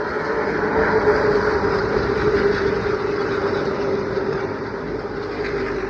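A pack of Pro Late Model race cars' V8 engines at full throttle going past on a short oval, the sound swelling about a second in and then slowly fading as the field moves away.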